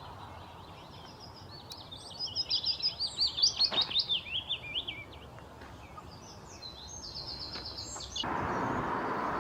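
A songbird singing a fast, varied warbling phrase of quick notes, then a short even trill. Near the end a steady rushing noise comes in.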